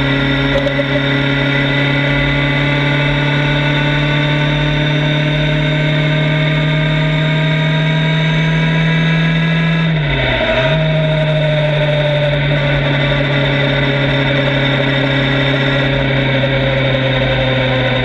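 Motorcycle engine running steadily on the move, loud and distorted with noise over it. The engine pitch dips briefly and recovers about ten seconds in.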